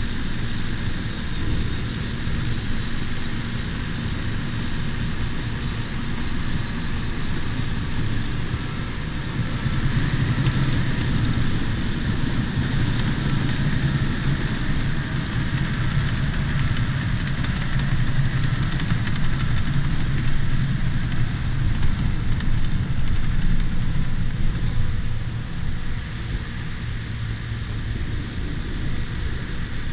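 Bulldozer's diesel engine running steadily, growing louder through the middle stretch and easing back near the end.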